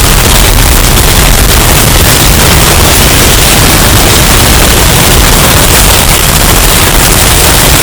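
Hurricane wind sound effect, bass-boosted and overdriven into constant distorted noise with a heavy low rumble, pinned at full loudness throughout.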